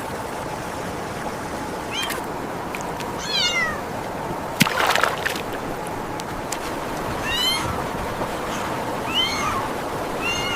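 A kitten mewing about five times, short high-pitched cries, over a steady rush of water; a splash breaks in about five seconds in.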